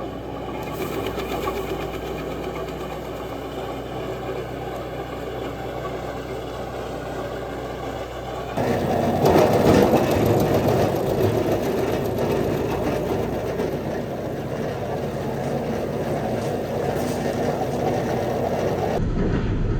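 Gasoline wood chipper's engine running steadily. About eight and a half seconds in, it turns suddenly louder and rougher.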